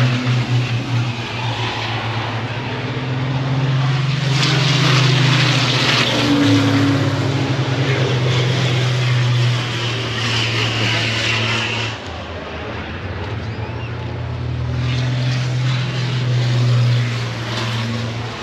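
Heavy truck engines running steadily. Their low note steps down about six seconds in and drops again about twelve seconds in.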